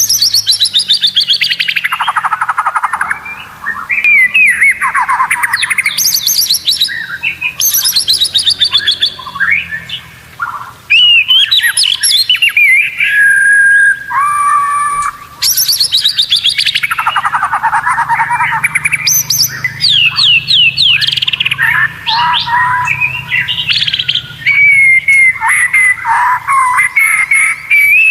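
White-rumped shama (murai batu) singing almost without pause: fast rattling trills that fall in pitch, mixed with clear held whistles and quick chirps.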